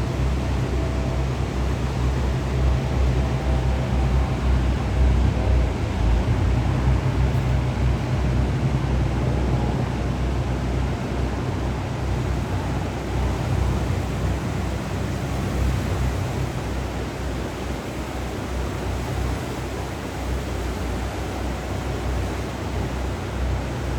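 Steady rushing noise of river water with wind rumbling on the microphone, under the engine drone of a jet boat out on the river; a faint thin engine tone fades out within the first several seconds, and the whole sound eases slightly in the second half.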